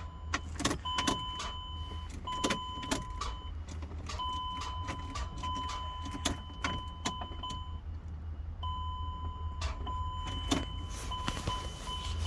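Chrysler Pacifica's starter clicking repeatedly without cranking the engine, while a steady electronic tone sounds on and off. The no-start clicking comes from a bad ground connection between the battery and the engine, traced to a corroded ground cable.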